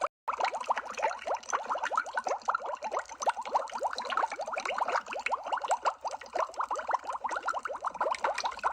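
Underwater bubble sound effect: a dense, continuous stream of bubbles, each a short rising blip, with a brief gap just after the start.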